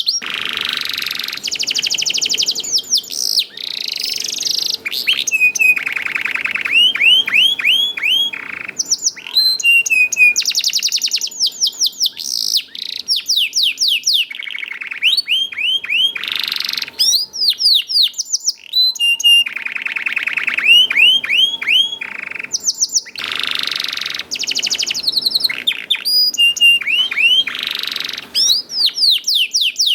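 Canary singing a long, varied song. Fast rattling trills alternate with runs of repeated sweeping chirps, in phrases broken by short pauses.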